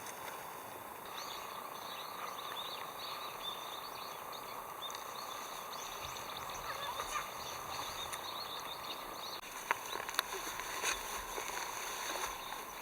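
Small birds chirping in quick, short calls over a steady high-pitched hum, with a few sharp clicks near the end.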